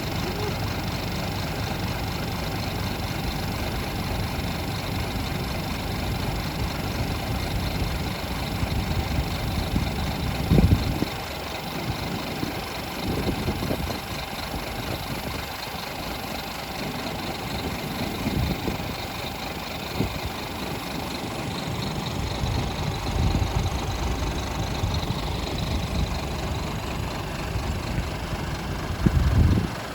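Scania R480 truck's diesel engine idling steadily, with two brief louder low surges, one about a third of the way in and one near the end.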